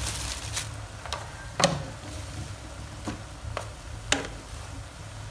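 Whole shrimp frying in oil in a pot, with irregular sharp pops of spattering oil over a low steady hum. The loudest pops come about a second and a half in and again near four seconds.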